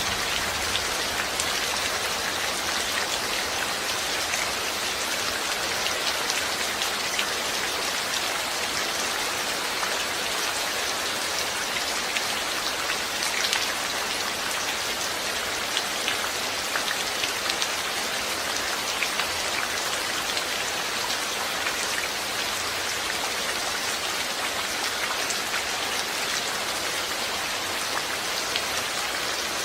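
Steady rain falling, a constant hiss with many individual drops pattering on a surface.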